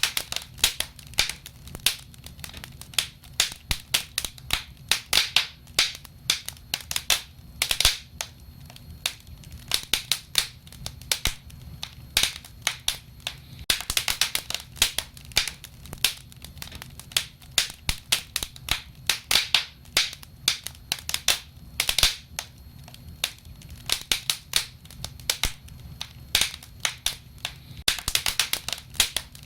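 Wood fire crackling: irregular sharp pops and snaps, some in quick clusters, over a low steady rumble of the flames.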